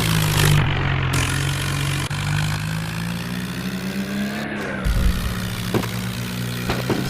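Tractor's diesel engine running steadily, its pitch rising a little midway and falling back, with a few short low thumps near the end.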